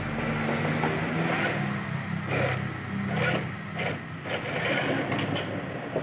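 Small DC gearbox motors of a toy RC truck whirring steadily, with several short knocks and scrapes.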